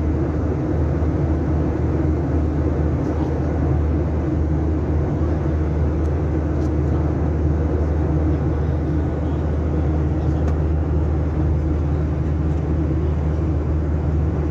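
Steady low drone of a passenger aircraft's cabin in flight: engine and airflow noise heard from a seat by the window, unchanging throughout.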